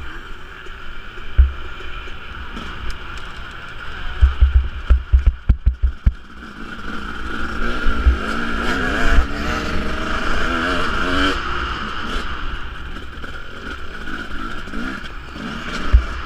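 Husqvarna 250 two-stroke motocross bike riding the track, its engine revving up and down as the rider works the throttle, loudest around the middle. Low thuds hit the microphone a few seconds in.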